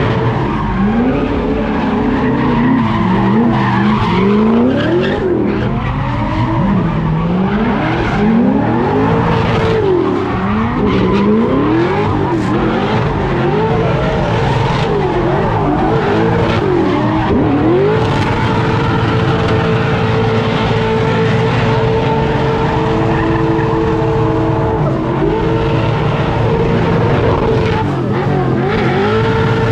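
A car doing donuts: its engine revs rise and fall over and over, then hold steady for several seconds in the middle, over the sound of tyres skidding and squealing on the pavement.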